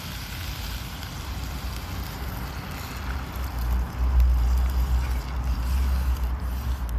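A low rumble that grows louder about four seconds in, under a faint hiss.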